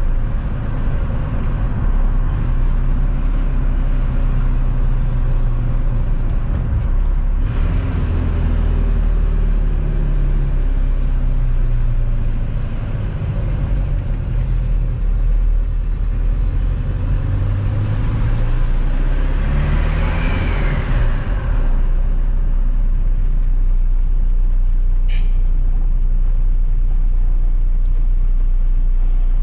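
Volkswagen Polo 1.9 TDI diesel with a GTB2260VK hybrid turbo, running with no downpipe or intake fitted, being driven: the engine note rises and falls as it accelerates through the gears, with a rising turbo whistle. It then settles to a steady drone for the last few seconds.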